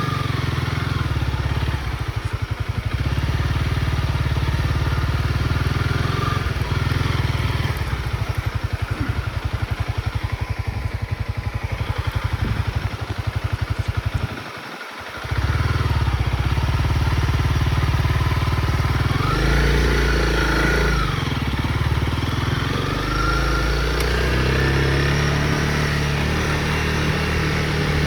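Honda CRF motorcycle engine running under way with a rapid, even firing pulse. The sound drops briefly about halfway through, then the revs rise and fall several times.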